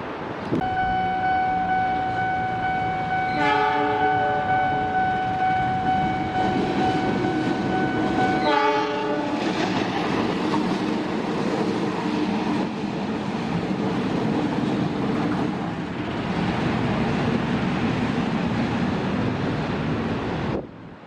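Train horn sounding one long, steady multi-note blast for about eight seconds, wavering briefly twice, then the passing train's steady rumble with rail clatter until the sound cuts off near the end.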